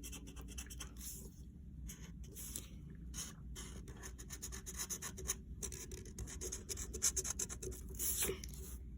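Colored pencil scribbling back and forth on paper in rapid, irregular scratchy shading strokes.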